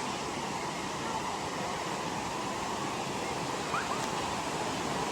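Steady rush of a waterfall: continuous, even water noise.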